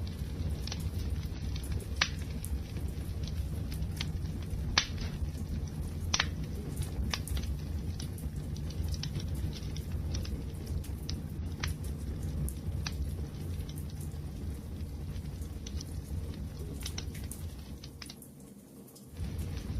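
Wood fire crackling: scattered sharp pops and snaps over a low steady rumble of burning. The sound sags briefly near the end, then comes back.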